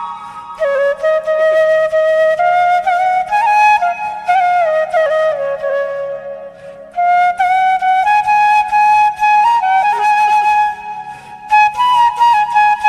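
Background music: a slow flute melody of held notes with small slides, over a low steady drone, breaking off briefly about halfway and again near the end.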